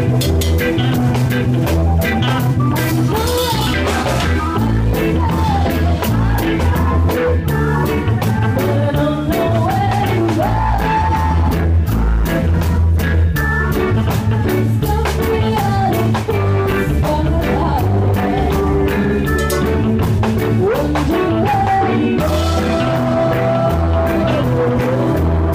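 A live band playing a rock song with electric guitar, bass guitar and drum kit, a steady beat underneath.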